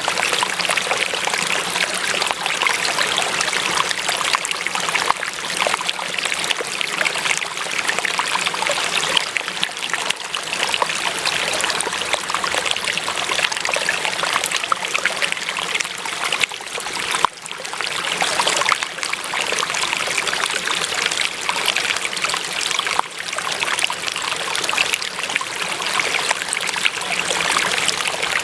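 Water flowing and trickling steadily, like a small stream over stones, with a brief dip in level about two-thirds of the way through.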